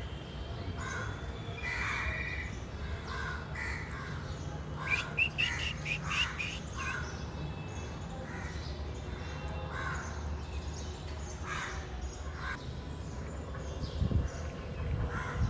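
Crows cawing again and again, with a quick run of high, arched whistling notes about five seconds in. A steady low rumble runs underneath.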